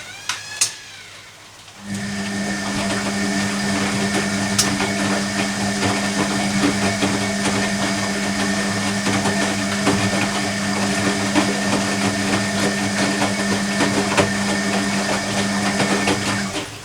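Hoover Electronic A3172 washing machine running on a Cottons 40 wash: its motor starts about two seconds in, runs with a steady hum and a fine rattle for about fifteen seconds, then stops shortly before the end. A few clicks come just before the motor starts.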